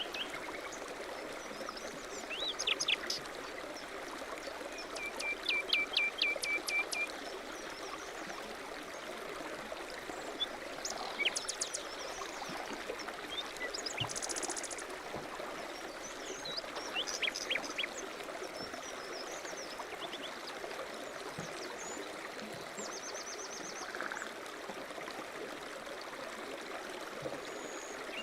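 A stream running steadily, with several birds calling and singing over it: short high chirps every few seconds, a quick run of repeated notes around five to seven seconds in, and a buzzy trill near fourteen seconds.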